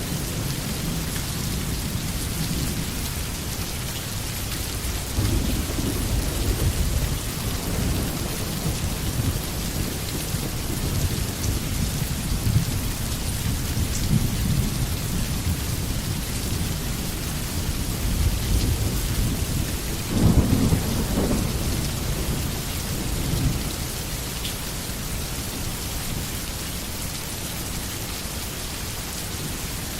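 Steady rain hissing, with low rolling thunder swelling and fading underneath; the loudest rumble comes about two-thirds of the way through.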